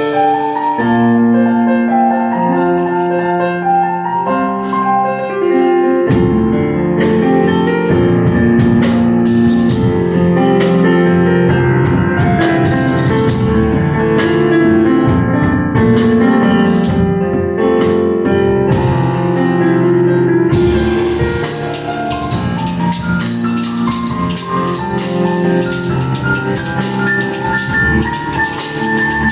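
Live band music: held keyboard chords alone at first, then bass and drums come in about six seconds in, with cymbals ringing steadily from about two-thirds of the way through.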